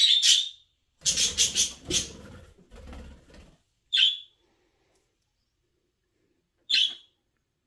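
Pet birds giving short, high chirps three times, with a fluttering of wings from about a second in for roughly two and a half seconds.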